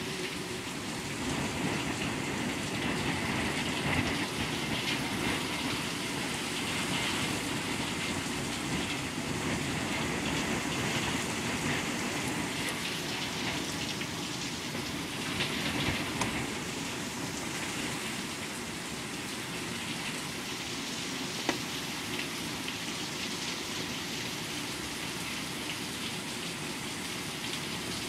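Heavy rain pouring steadily in a severe thunderstorm, with a few brief sharp taps scattered through.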